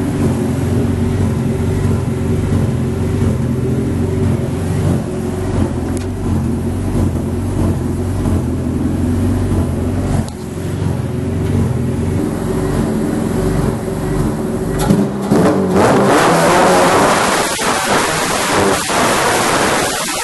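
Honda B18C four-cylinder engine running steadily, then about fifteen seconds in it revs up hard and the tyres spin and squeal during a burnout on the shop floor.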